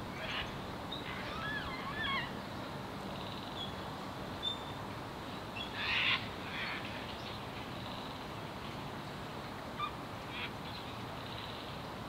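Scattered calls from wild birds over a steady faint outdoor hiss. There are a few quick rising-and-falling calls about a second in, short high chirps, and a louder, rougher call about six seconds in.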